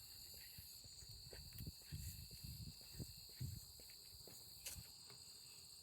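Crickets chirring, a faint, steady high-pitched sound, with soft footsteps on a trail.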